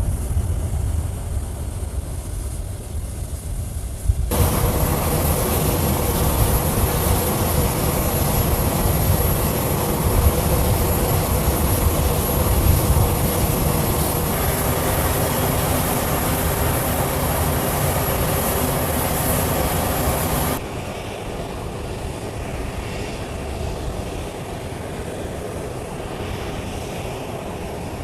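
Jet transport aircraft engines running, most likely the C-17 Globemaster III's four turbofans: a steady low rumble that about 4 s in cuts abruptly to a louder run with a steady engine whine, then about 20 s in cuts back to a quieter rumble.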